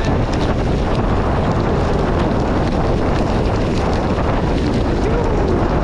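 Wind buffeting a GoPro action camera's microphone on a fast mountain-bike ride down a forest trail, a steady loud rush, with the bike rattling and clicking over the rough ground.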